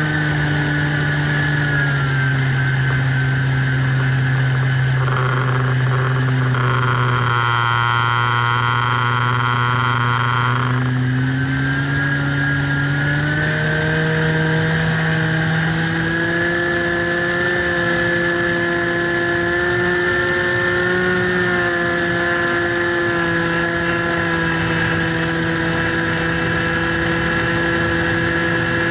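Motor of a radio-control FPV plane running steadily, its pitch dropping as the throttle comes back and rising again as it is opened up. A buzzy tone sits over it for a few seconds in the middle.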